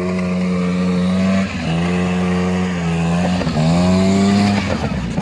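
KTM 85 SX two-stroke single-cylinder engine held at high revs, dipping briefly twice and then dropping off near the end.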